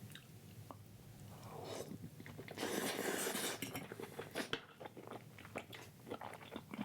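A person chewing a mouthful of vegan omelet close to the microphone, with wet mouth clicks and smacks. A breathy rush of air about two to three seconds in.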